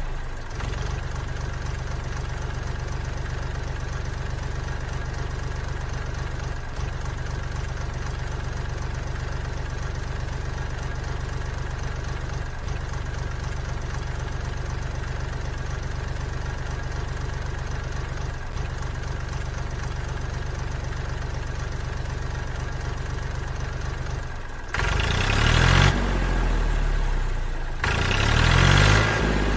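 Small motor of a homemade model tractor running with a steady low hum. About 25 seconds in it turns louder, with the pitch rising and falling in two spells as the tractor drives.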